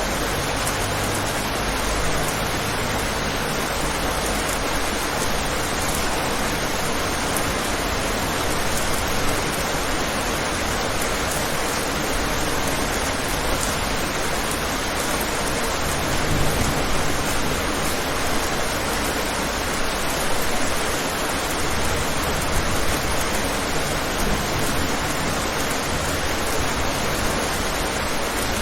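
Steady rain falling on a window: an even hiss with no single drops standing out.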